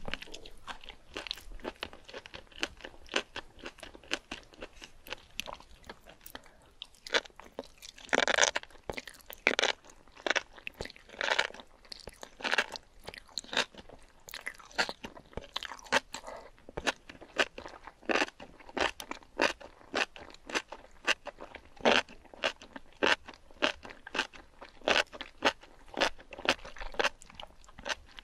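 Close-miked chewing of sauced enoki mushrooms, crunching in a steady rhythm of about two chews a second, with a longer wet smacking bite about eight seconds in.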